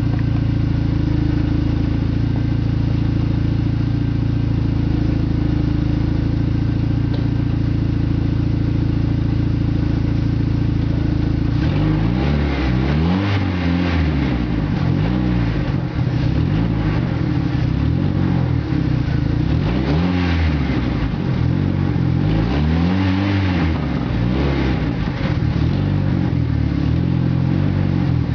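Dodge Neon four-cylinder engine running through its worn original exhaust, which is falling off after 242,000 miles. It idles steadily, then from about twelve seconds in is revved up and let fall back several times.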